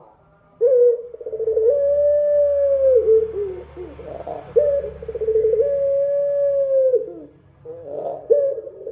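Puter dove (domestic Barbary dove) cooing: a run of long, drawn-out coos, each about a second long at a fairly level pitch with a slight waver, separated by short breaks. After a pause of about a second near the end, another coo starts.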